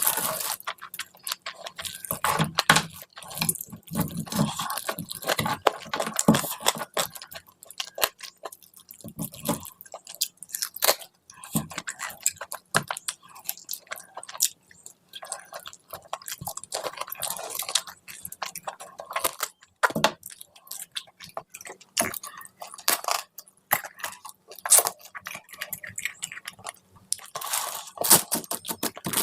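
A person eating curry with rice and puri close to the microphone: chewing and wet mouth clicks that come irregularly and fast.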